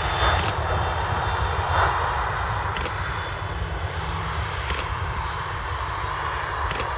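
Boeing 737 jet engines running steadily, a broad rumbling roar with a faint whine on top.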